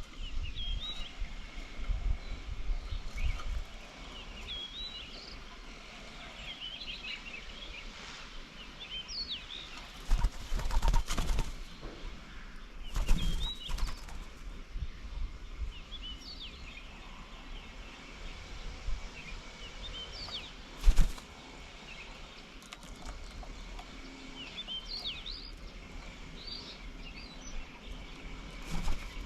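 Small birds chirping and calling: many short, quick notes that rise and fall, over a steady thin high tone. A few louder low rumbling bursts come and go, the sharpest about 21 seconds in.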